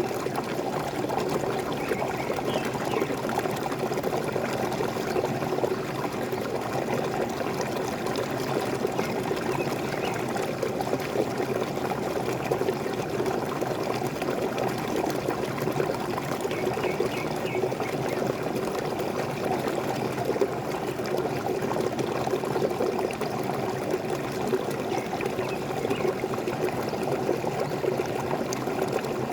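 Waterfall splashing steadily, an even, unchanging rush of falling water.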